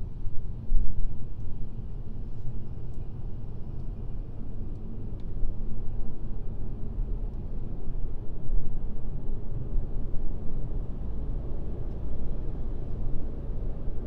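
Steady low rumble of a car driving on a highway: road and tyre noise with engine hum, with a few faint ticks.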